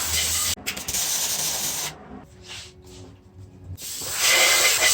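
Welding short beads on a steel mini-bike wheel hub: two bursts of loud, steady hiss, the first lasting about two seconds and the second starting near the end, with a quieter gap between them.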